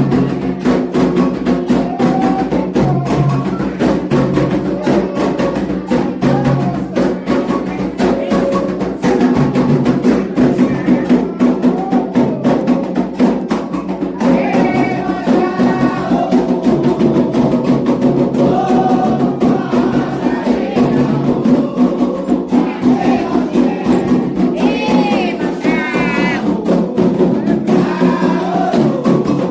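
Candomblé ritual music: atabaque hand drums playing a steady, fast rhythm under sung chants. Higher voices join the singing about halfway through.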